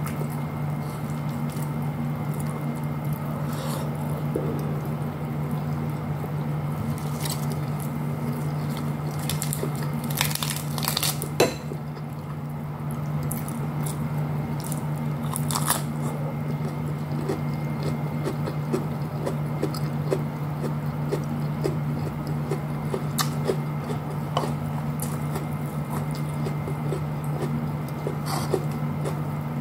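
Close-up eating sounds: chewing, crunching bites of fresh lettuce leaf and fingers squishing rice and fish, with a loud sharp crunch about eleven seconds in. A steady low hum runs underneath.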